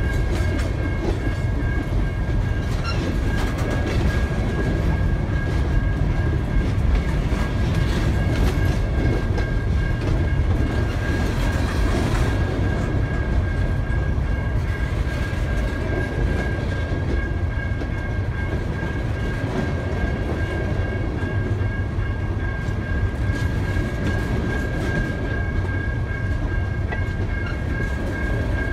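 A CSX coal train's loaded hopper cars rolling past at steady speed: a continuous rumble of wheels on rail with light clicking over the joints and a thin steady high whine riding over it.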